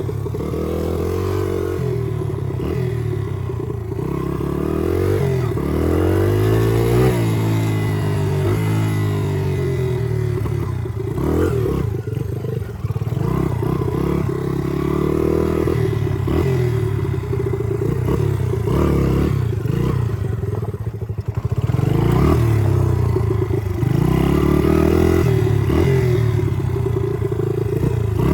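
Chinese pit bike's single-cylinder four-stroke engine, fitted with a Z40 cam, running and being revved repeatedly, its pitch climbing and dropping back to idle several times.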